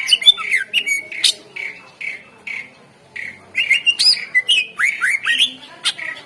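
Green leafbird (cucak ijo) singing a rapid, varied song of short whistled notes, chirps and quick downward slurs, with a few sharp clicking notes and a brief pause midway.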